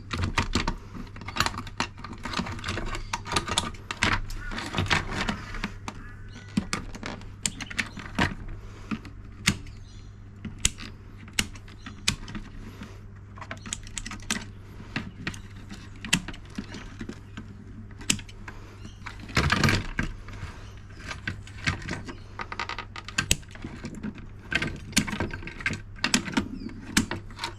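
Secateurs snipping through the wiring and plastic of a dishwasher being torn down, with parts pulled and handled: a long run of sharp clicks and snaps mixed with rattling.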